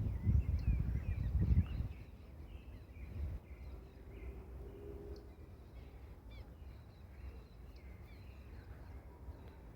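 Many small birds chirping over a steady outdoor background, with a loud low rumble in the first two seconds.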